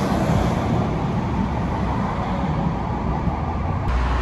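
Steady rumble of a train running. Near the end the sound changes abruptly to a steadier low hum, with the hiss dropping away.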